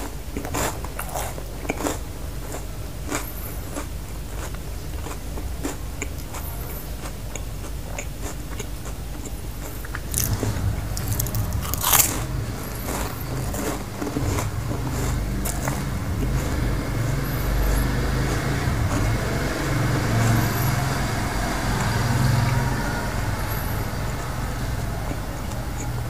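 A person chewing toasted garlic bread close to the microphone, with many crisp crunching clicks. From about ten seconds in the chewing grows louder and deeper, with one sharp crunch soon after.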